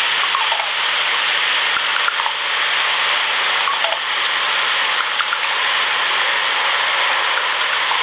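Steady rushing hiss, even throughout, with a few faint short chirps heard within it.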